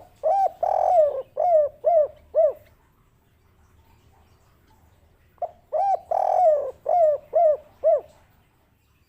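Spotted dove (tekukur) cooing its 'kuk 3' song twice, a few seconds apart. Each phrase is a couple of short coos, one longer drawn-out coo, then three short clipped coos.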